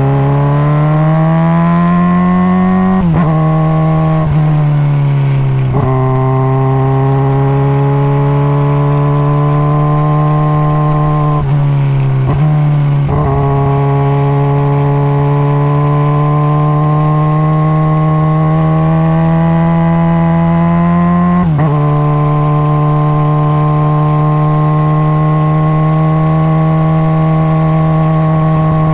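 Engine and stock exhaust of a 2021 Honda CBR600RR inline-four sport bike, heard from onboard while riding. It revs up over the first few seconds, then a cluster of gear changes and throttle changes comes in the first half, and it settles into long stretches of steady running. There is one more shift about two-thirds of the way through.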